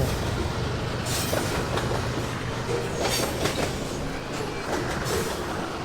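A steady low mechanical rumble, with a few short clanks of scrap metal being handled.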